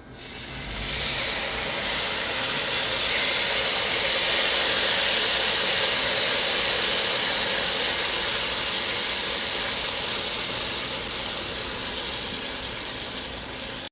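Mandarin orange sauce poured over hot chicken in a frying pan, sizzling steadily; the sizzle builds up in the first second, eases slowly, and cuts off suddenly at the end.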